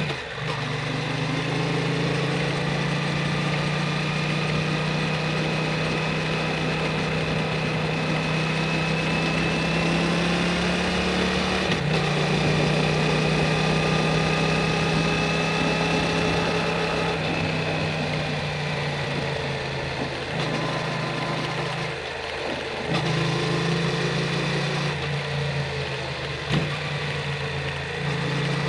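Yamaha MT-07's parallel-twin engine through an Akrapovic Racing Titan full exhaust, running at a fairly steady engine speed. The note falls away briefly a couple of times in the last third.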